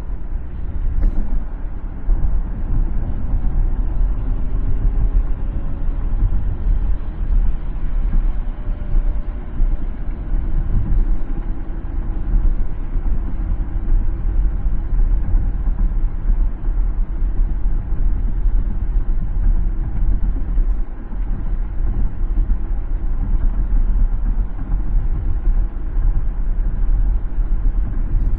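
Car driving on a city road: steady low rumble of tyres and engine, with a faint tone shifting in pitch a few seconds in.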